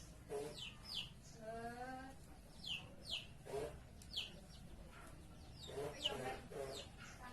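Birds calling: a run of short, high chirps that fall in pitch, with a few lower calls about a second and a half in and again around six seconds.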